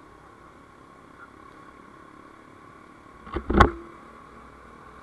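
Steady vehicle cabin noise while driving, broken about three and a half seconds in by a quick cluster of sharp thumps.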